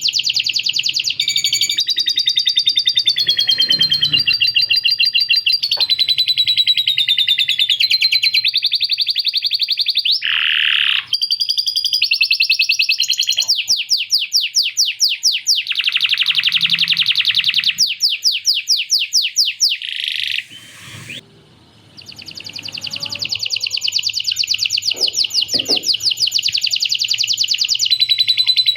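Male canary singing a long, continuous song of rapid trills and rolls, each a quick run of repeated notes. The song carries phrases learned from a lovebird's chatter. There is a brief pause about three quarters of the way in.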